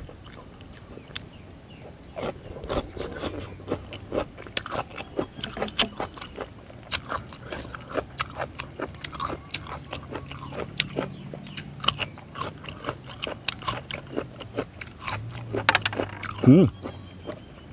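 Close-up chewing of crunchy raw vegetables, a red radish among them: many crisp crunches and bites in quick succession, with low closed-mouth humming under them.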